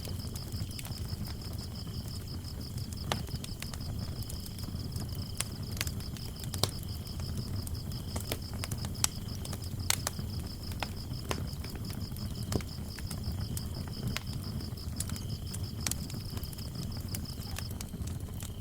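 Crickets chirping in a steady, fast pulsing trill, with a second, lower cricket joining on and off; the higher one stops near the end. Beneath them a wood fire burns with a low rumble and scattered sharp crackles and pops.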